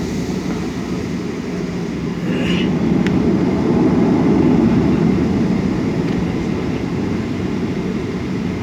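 Airliner cabin noise: a steady low rumble of the aircraft's engines heard from inside the cabin, swelling slightly midway.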